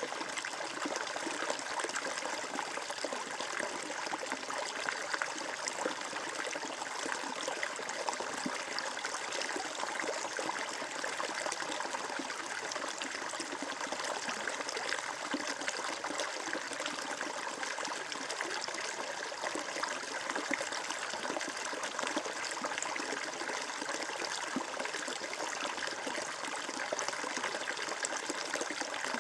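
Flowing water trickling and babbling steadily, like a small stream running over stones.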